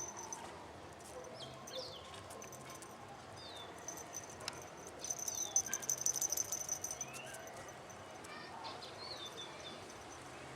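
Outdoor ambience of scattered short bird chirps over a high, thin insect trill that grows louder and pulses rapidly in the middle, with a few faint clicks.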